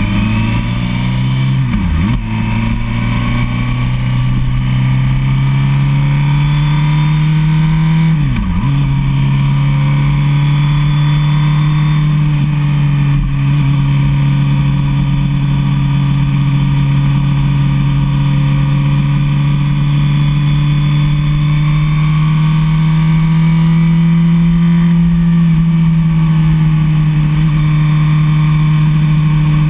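Sport motorcycle engine riding at speed, with a steady, high engine note. The pitch rises at first, then dips sharply and recovers twice, about two and eight seconds in, before holding steady.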